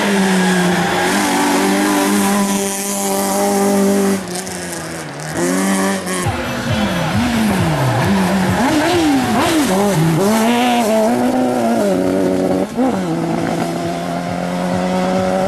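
Race car engine running hard at high revs. In the middle, the revs rise and fall quickly several times in a row, as with throttle blips and gear changes through corners, before settling back to a steady high pitch.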